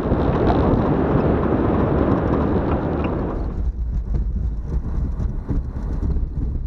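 A car running on the move, its engine rumble under a loud, dense rushing noise that eases somewhat about halfway through.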